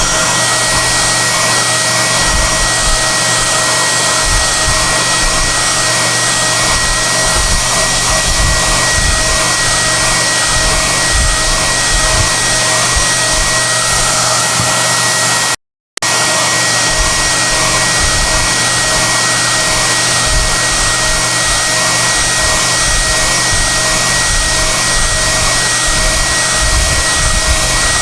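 SOUNATE XM-H008 high-airflow hair dryer blowing steadily, a loud rushing hiss with a steady high whine. The sound cuts out for a split second a little past halfway, then carries on unchanged.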